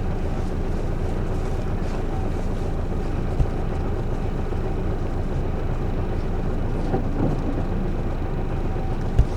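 Isuzu Erga city bus's diesel engine idling steadily, heard from inside the cabin, a low constant hum with a couple of short thumps.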